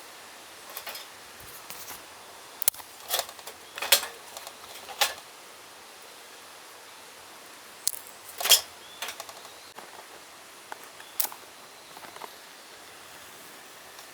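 Irregular short clicks and clacks of small hard objects being handled, the loudest a little past the middle, over a steady outdoor hiss.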